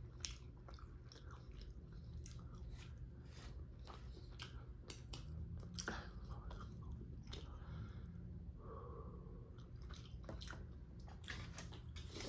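Close-up chewing of food: soft, wet mouth clicks and chewing sounds at an irregular pace.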